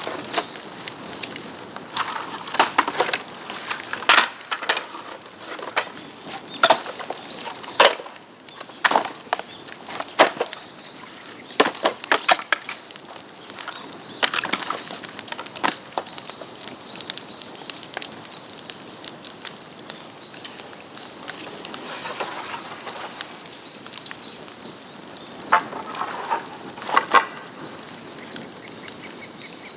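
Dry bamboo branches crackling and snapping: irregular sharp cracks, some coming in quick clusters, over a steady hiss.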